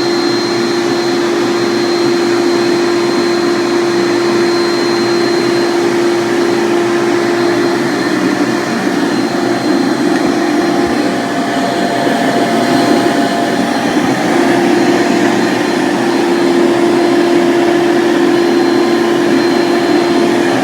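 Steady whir of an electric shop motor running, with a constant low hum and a thin high whine that waver for a few seconds mid-way.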